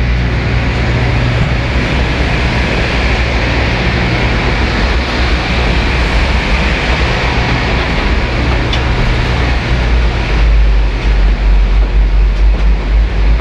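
Train running by: a steady heavy rumble with a wide hiss over it, growing louder and more uneven about ten seconds in.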